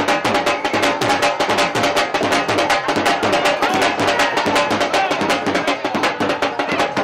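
Music: fast, steady drumming at about eight strokes a second, with held melodic tones sounding above it.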